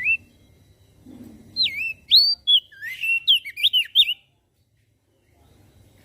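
Crested white-eye (opior jambul) singing a fast, jumbled run of sweeping whistled notes that stops abruptly about four seconds in.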